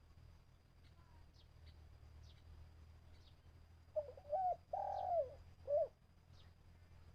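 A spotted dove cooing one three-part phrase about four seconds in, the middle note the longest. Faint high chirps of small birds come and go throughout.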